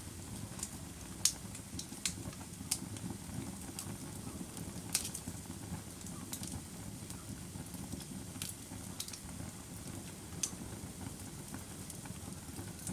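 Wood fire burning with a steady low roar and irregular sharp crackles and pops, about one every second.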